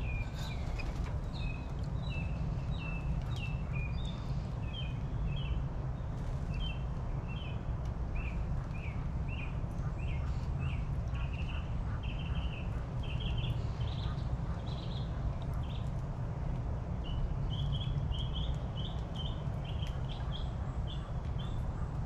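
Small birds chirping over and over in quick short notes, a few a second, with a brief pause past the middle, over a steady low rumble.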